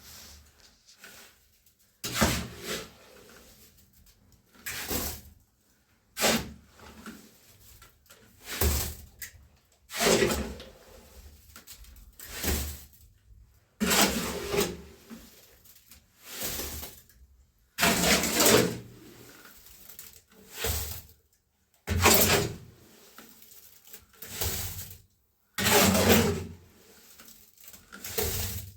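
A hand tool scraping through cement mix in repeated strokes, about one every one and a half to two seconds.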